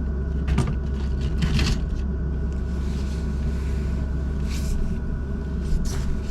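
Portable diesel heater running with a steady mechanical hum, a low drone with a few steady tones above it. A few brief rustles and knocks of gear being handled break in now and then.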